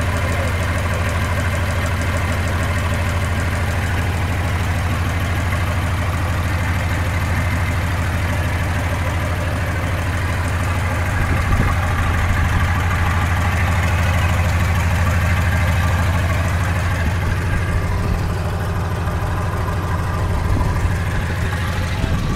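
Freshly overhauled Mercedes-Benz engine idling steadily, with an even low running note that grows slightly louder about halfway through.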